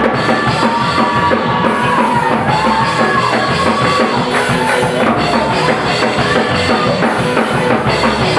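Live band music: a drum kit keeps a steady, busy beat under a melody line that slides and bends in pitch.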